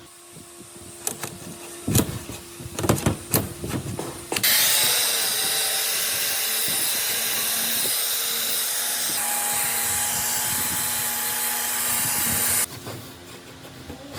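A few sharp knocks, then a loud steady hiss for about eight seconds that starts suddenly and cuts off suddenly.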